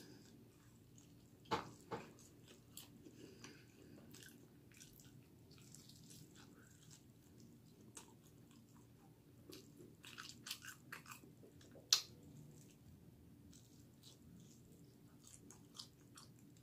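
A person chewing and biting on a chicken wing, close to the microphone, with scattered sharp crunching clicks; the loudest crunch comes about twelve seconds in.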